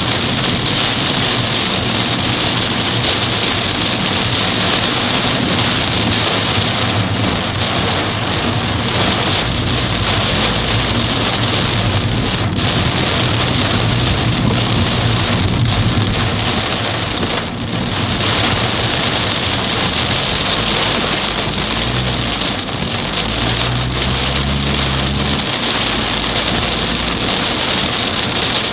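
Torrential rain of a sudden cloudburst pounding on a car as it drives, a dense steady roar of water, with a low engine and road hum that rises and falls in the second half.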